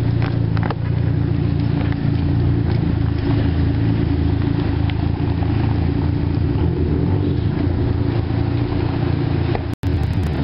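Car engine idling steadily as a low, even drone, with a few faint clicks in the first second and a momentary break in the sound near the end.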